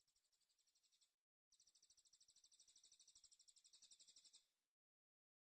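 Faint, high-pitched songbird trill: a rapid, even string of notes about ten a second. One trill ends about a second in, and a longer one of about three seconds follows, growing slightly louder before it stops.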